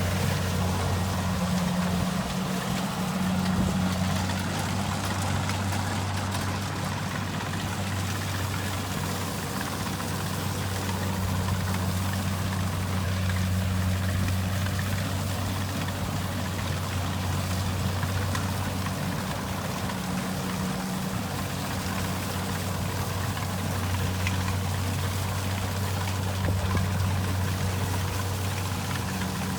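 Kubota rice combine harvester's diesel engine running steadily under a constant low drone, with a rushing machine noise over it.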